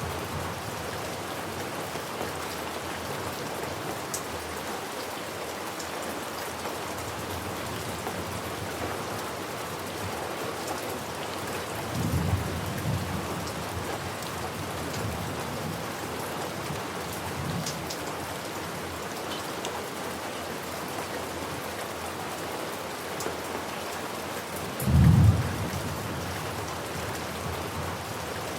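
Steady heavy rain falling on a surface, with thunder rumbling twice: once about twelve seconds in, and a louder, shorter peal about twenty-five seconds in.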